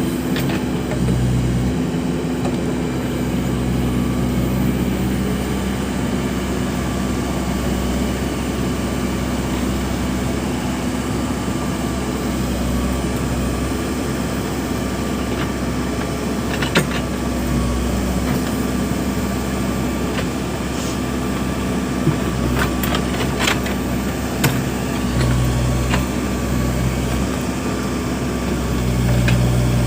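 Backhoe loader's diesel engine running steadily, its note swelling now and then as the hydraulics take load. A few sharp knocks come in the second half.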